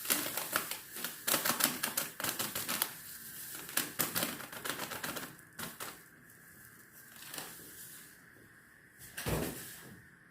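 Dry couscous grains being scooped and handled, a dense rapid clicking and rattling for about five seconds, then a few scattered rustles and one louder scrape near the end.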